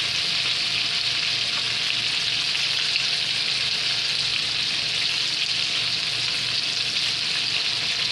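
Chicken strips frying in hot oil in a skillet, giving a steady, even sizzle.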